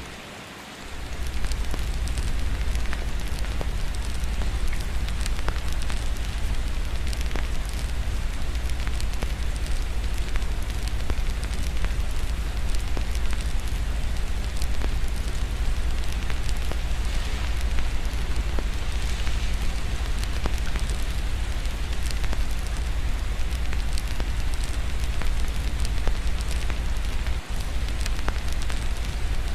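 Wood fire crackling with many small sharp pops over steady rain, with a constant low rumble underneath. The low rumble drops out briefly in the first second.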